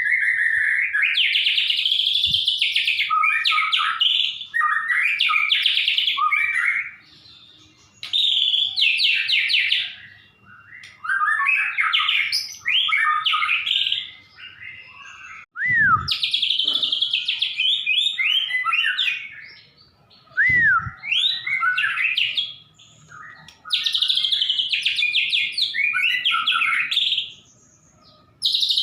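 White-rumped shama and Javan bush lark singing: long, loud bursts of rapid, varied song phrases, several seconds each, with short pauses between. Two dull thumps come about halfway through.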